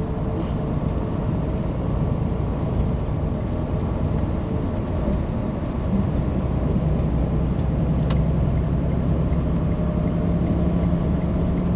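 Cab interior of a Freightliner Cascadia box truck on the move: steady diesel engine and road noise. A low engine drone grows a little louder about halfway through.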